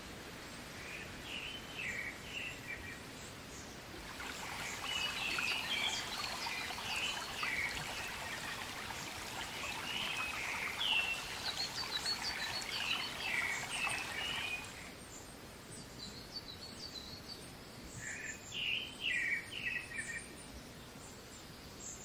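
Birds singing in short repeated phrases of quick chirping notes. The hiss of a small rocky stream runs under them from about four seconds in and cuts off suddenly about two-thirds of the way through.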